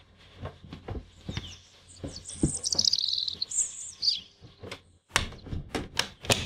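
Small birds chirping and twittering in quick, high, falling notes, loudest in a dense burst in the middle. Scattered sharp clicks and light knocks run alongside, several in quick succession near the end.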